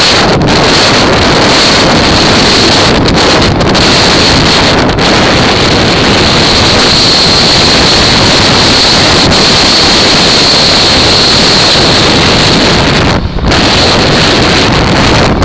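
Heavy wind rushing over a microphone on an ATV being ridden, loud enough to bury the engine. It drops out briefly near the end.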